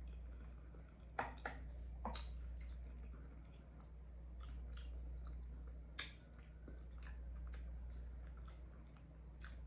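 Close-miked chewing and mouth sounds of a person eating a seafood boil, with a few sharp clicks and taps as fingers pick through shrimp, mussels and corn in a glass baking dish. A steady low hum runs underneath.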